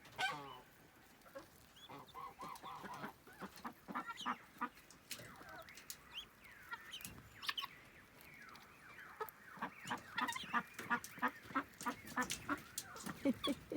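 Domestic fowl calling in short clucking notes while being fed: scattered at first, then a faster, louder run of about three calls a second in the second half.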